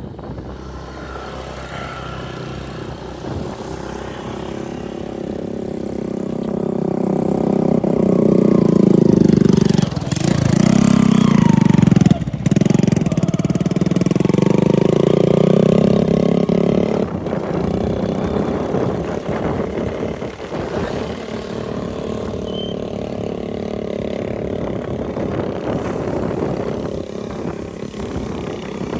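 A motorbike engine drawing near, loudest in the middle as it passes close with its pitch shifting, then easing away.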